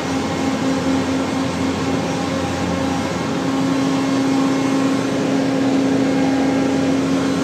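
A machine running with a steady hum at a constant pitch over a rushing noise, growing slightly louder about halfway through.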